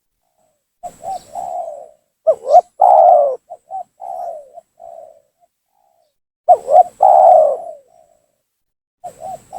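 Spotted dove (tekukur) cooing in loud repeated phrases, about four bouts of coos with short pauses between. This is a lure call meant to provoke a rival dove and draw it down.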